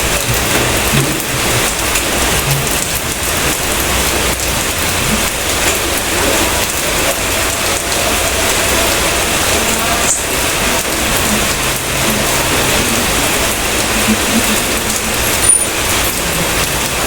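Steady rain falling on a surface, a dense, even hiss.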